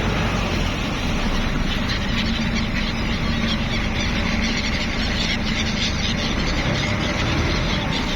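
Steady engine rumble with a constant dense noise over it, unchanging throughout.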